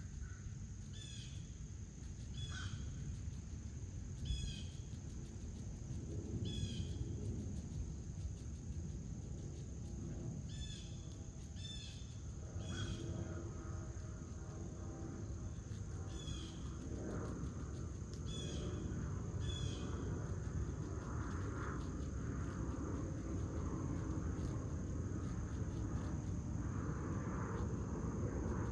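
A small bird calling in short, repeated chirps, about one every second or two, which stop about two-thirds of the way through. Under them runs a steady, high insect drone and a low outdoor rumble.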